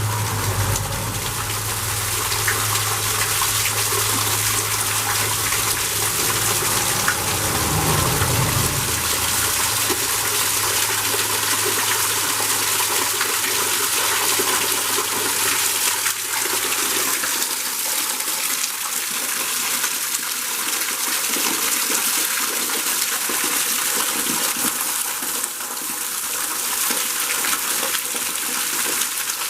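Waterfall rushing: a steady, loud wash of falling water. A low steady hum runs underneath at first and fades out about nine seconds in.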